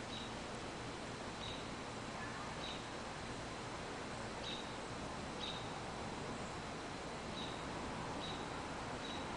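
Outdoor ambience with a steady background hiss, through which a small bird gives short high chirps, one every second or two.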